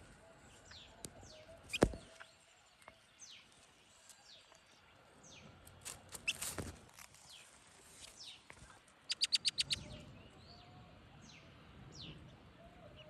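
Small wild birds calling: scattered short, high, downward-slurred chirps, with a quick run of about seven rapid notes about nine seconds in. A single sharp click comes just before two seconds in.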